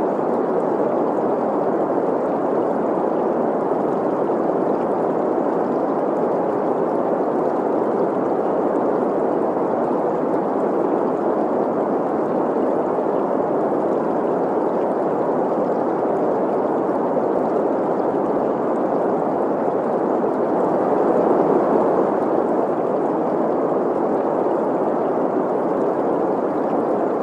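Steady green noise, an even hiss centred in the middle of the pitch range, blended with the sound of a flowing stream. It swells slightly a little past the middle.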